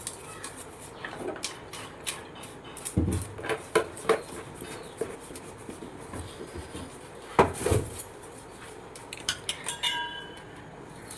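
Kitchen pots and utensils clinking and knocking as a small pan is handled, with two louder knocks about three and seven and a half seconds in and a brief metallic ring near the end.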